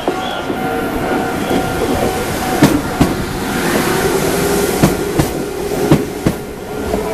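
Meitetsu electric train rolling slowly through a level crossing. Its wheels clack over a rail joint in pairs of beats, the two axles of each bogie, over a steady rumble.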